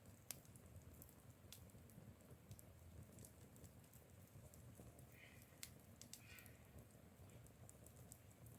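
Near silence, broken by scattered faint ticks and clicks, with two faint brief chirps about five and six seconds in.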